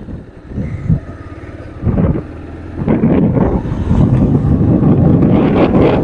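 Wind buffeting the microphone of a moving motorcycle, over a low engine and road rumble; the wind noise gets louder and steadier about halfway through.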